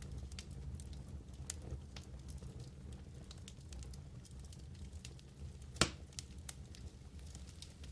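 Wood fire burning in a fireplace: a low steady rumble with scattered small crackles and pops, and one louder, sharper pop about six seconds in.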